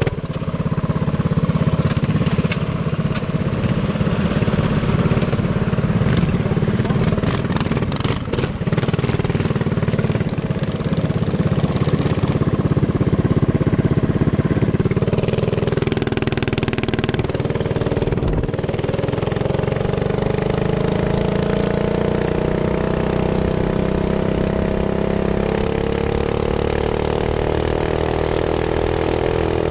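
Small minibike engine running as the bike rides along the street. About halfway through, the engine note rises steadily as it speeds up.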